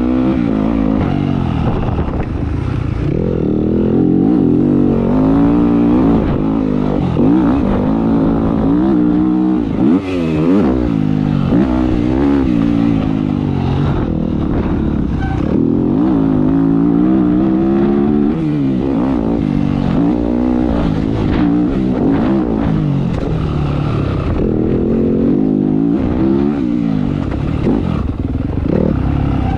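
Motocross dirt bike engine revving hard and easing off again and again, its pitch rising and falling as the rider accelerates and backs off, with a brief drop in the sound about ten seconds in.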